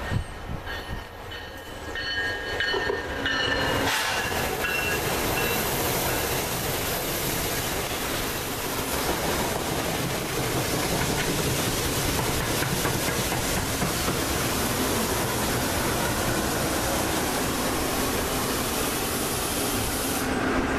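NJ Transit commuter train passing close at speed: a steady rush of wheel and rail noise that builds over the first four seconds as the train arrives, then holds while the cars go by.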